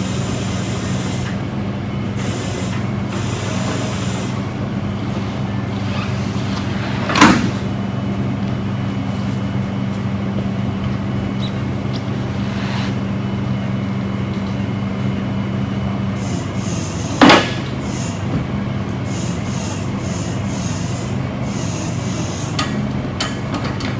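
Tow truck engine running steadily, with two sharp, loud metal clanks about ten seconds apart; part of the engine hum drops away near the two-thirds mark.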